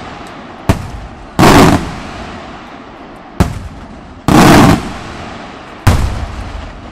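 Aerial firework shells and salutes going off: three sharp cracks and two longer, heavier bangs that come shortly after a crack, each bang dying away slowly in echo.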